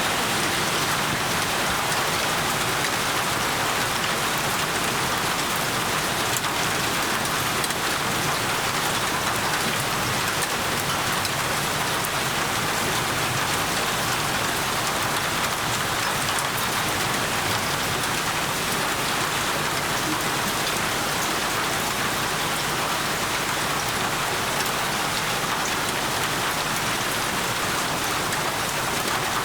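Steady heavy rain falling on a surface, an even hiss with fine drop patter and no letup.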